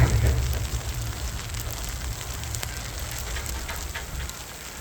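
Snowstorm ambience: a steady crackling hiss with scattered faint ticks, and a low rumble at the start that fades away over the first couple of seconds.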